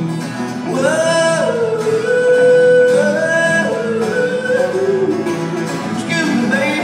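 Live country music: a long held melody note that steps between a few pitches for several seconds, over acoustic guitar accompaniment.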